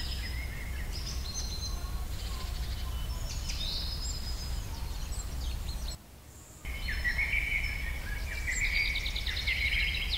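Small birds chirping and trilling over a low steady hum, with the sound dropping out for a moment about six seconds in.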